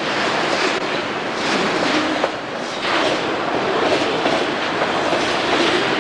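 Freight train rolling past with a steady rumble of steel wheels on rail, the wheels clacking over rail joints again and again.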